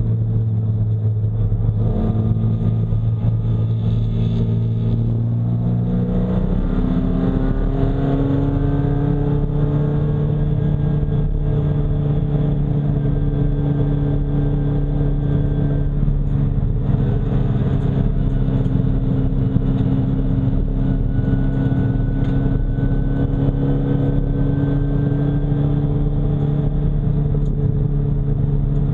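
Nissan 240SX race car's engine running hard, its pitch stepping up about six seconds in and climbing a little, then holding fairly steady.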